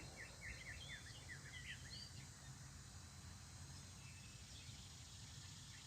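Faint birdsong: a quick run of short, high, falling chirps in the first two seconds and again near the end, over a steady low background rumble.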